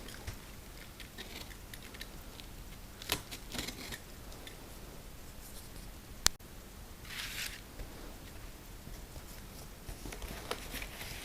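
Cardboard shipping box being opened by hand: packaging rustling with scattered clicks, and one sharp snap about six seconds in.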